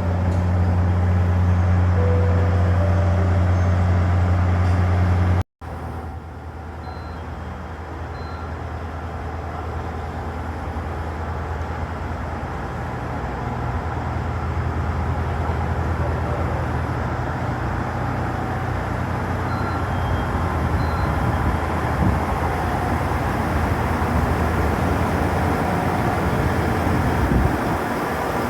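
A train's low, steady engine hum at a station that breaks off suddenly about five seconds in. A low rumble then grows gradually louder through the rest of the stretch.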